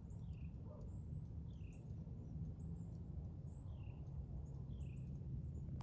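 Small woodland birds calling: short chirps that slide downward, repeated about once a second, with brief high thin notes among them, over a steady low rumble.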